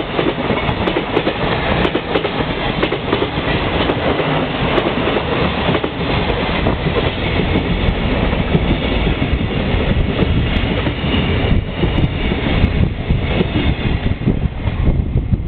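Freight train of container flatcars rolling past at close range: a loud, steady rumble and rattle of wheels on rails.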